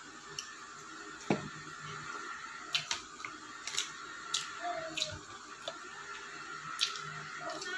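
Eating sounds from chewing crispy fried chicken: scattered sharp, wet mouth clicks and smacks, several a second at times, over a faint steady hum.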